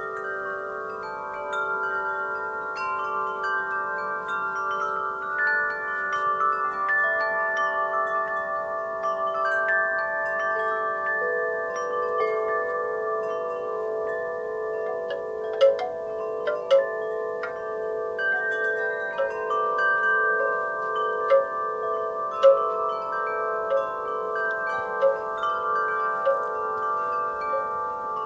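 Wind chimes ringing in a breeze, many overlapping long-sustained tones struck irregularly, with a few sharper, louder strikes in the second half.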